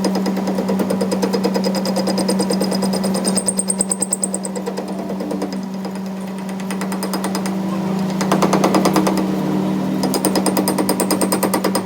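Fast, even mechanical hammering or rattling over a steady machine hum, changing in strength a couple of times.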